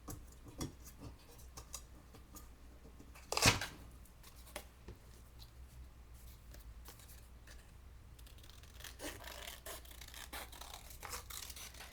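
Paper being handled and cut with scissors: quiet rustling and small snips, with one louder brief rustle about three and a half seconds in.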